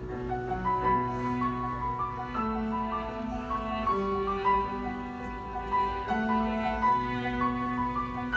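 Piano and cello playing a slow instrumental piece, long held cello notes under a moving piano line.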